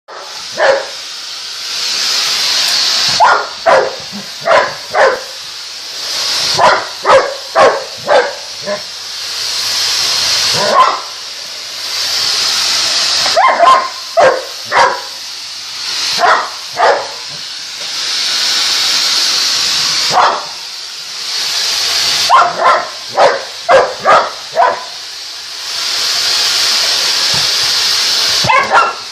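A vacuum cleaner runs with a steady hissing whine, broken again and again by a German Shepherd barking at it in quick bursts of four to six barks.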